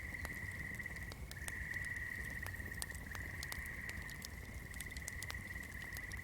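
A swamp chorus of frogs: a steady high trill with short breaks about every second and a half. Over it come scattered sharp crackles from a burning candle.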